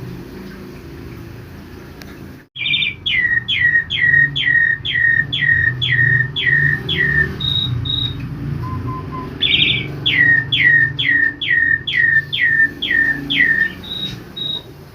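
Black-collared starling (jalak uren) singing twice: each phrase opens with a short buzzy rattle, then runs into about nine quick downward-slurred whistles and ends with two short high notes. A steady low rushing noise lies underneath.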